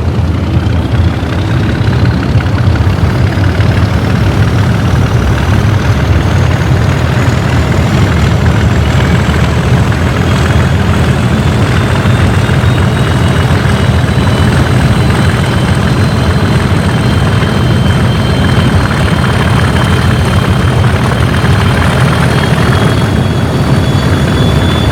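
English Electric 12CSVT V12 diesel engine of Class 37 locomotive D6700 running hard under power. A high turbocharger whistle rises in pitch over roughly the first ten seconds and then holds, with a second whine slowly climbing beneath it.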